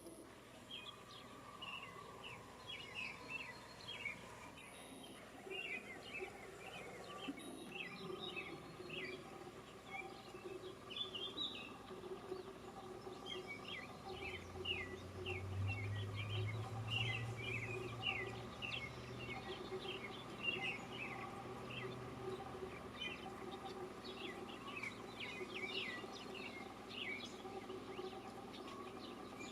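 Small birds chirping: a dense, overlapping run of short quick chirps that goes on throughout, over a steady low hum. A low drone swells for a few seconds around the middle.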